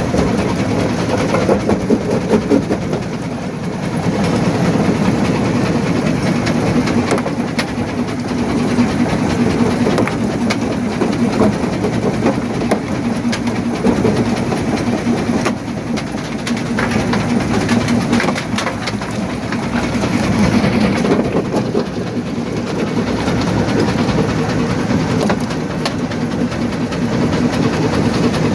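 Quarry primary jaw crusher running and crushing rock: a continuous deep rumble broken by frequent knocks and cracks of stone.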